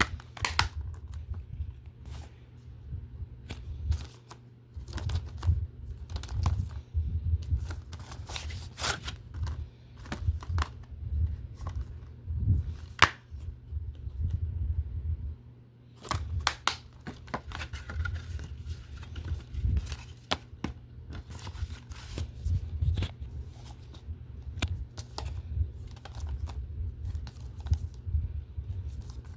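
DVD and Blu-ray cases being handled: irregular sharp plastic clicks and rustling throughout, over a low rumble of handling noise.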